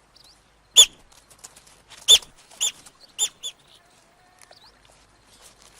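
North American river otters, likely the pups, giving five short high-pitched chirps, each an arched call, spread over a few seconds; the first, about a second in, is the loudest.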